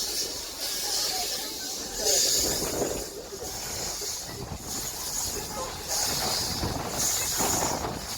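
Steam locomotive working slowly, its exhaust chuffing in hissy beats roughly once a second.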